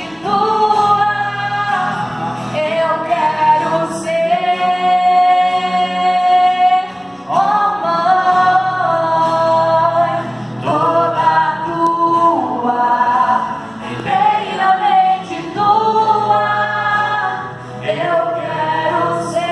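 Voices singing a song, a melody with several long held notes.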